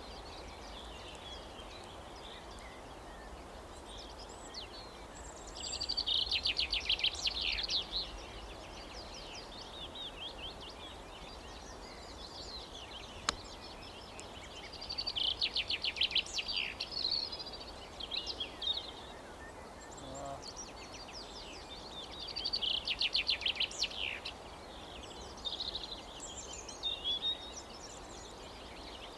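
A songbird repeatedly sings a short, fast trilled phrase of about two seconds, roughly every eight seconds, with fainter bird calls in between over a low outdoor rumble. A single sharp click comes about halfway through.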